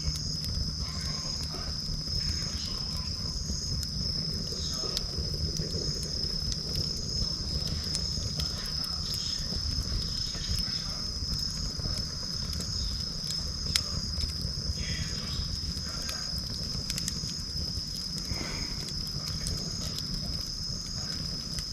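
Insects chirping in a steady, pulsing high-pitched chorus over a crackling campfire, with scattered small pops and one sharper pop about two-thirds of the way through.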